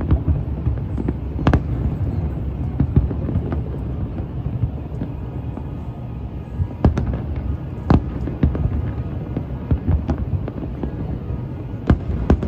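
Fireworks going off: irregular bangs and pops, some sharp and loud, over a steady low rumble.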